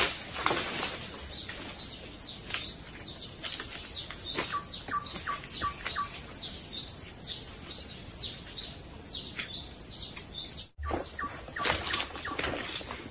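A forest bird calling a fast, regular series of short high chirps, about three a second, over a steady high-pitched whine. Footsteps crunch and rustle through dry leaf litter at the start and again after a brief break near the end.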